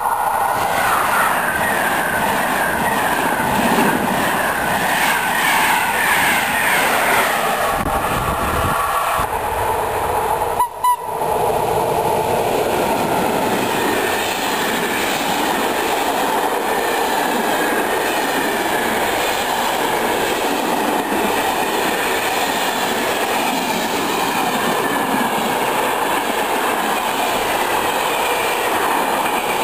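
An electric passenger train passes at speed, its whine falling in pitch over the first several seconds. Then, about eleven seconds in, a long container freight train rolls past close by with a steady clatter and rumble of wheels on rails.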